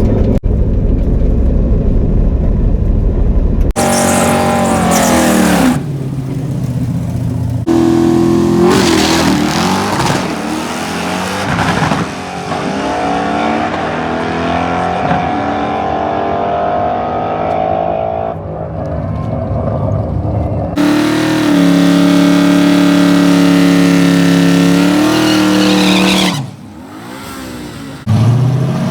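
Drag-built 5.0 V8 with open exhaust dumped behind the door, running hard. It starts with a low rumble, then revs up through the gears, the pitch climbing and dropping back at each shift. Later it holds a long loud steady high-rev stretch, dips briefly and revs up again near the end.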